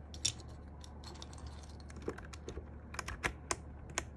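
Cherry-profile plastic keycaps being pressed onto the MMD Panda switches of a Sky87 mechanical keyboard: scattered sharp clicks, several in quick succession around three seconds in.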